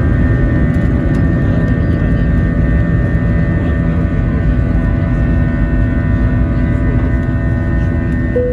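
Airbus A321-231's IAE V2500 turbofan engines at high thrust, heard from inside the passenger cabin: a loud, steady rumble with several steady engine tones over it. A short clear tone starts right at the end.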